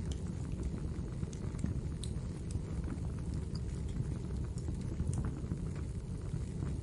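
Wood fire in a fireplace crackling: scattered sharp pops and snaps over a steady low rumble of the burning logs.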